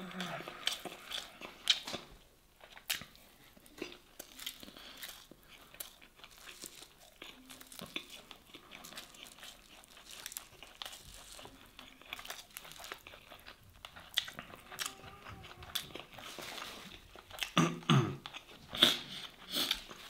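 Close-miked eating sounds: chewing and mouth noises while grilled masgouf fish and rice are eaten by hand, with scattered small clicks and crackles. A paper napkin crinkles near the end.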